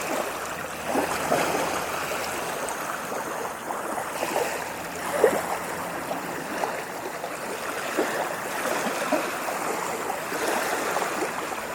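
Ocean waves washing in: a steady rush of water with frequent small gurgles and splashes.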